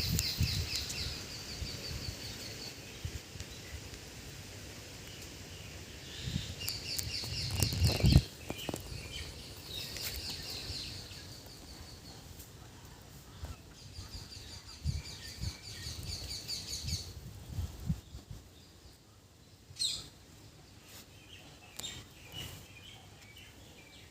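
Small birds chirping in bouts of rapid, evenly repeated high notes, with a couple of low rumbles of wind or handling on the microphone near the start and about eight seconds in.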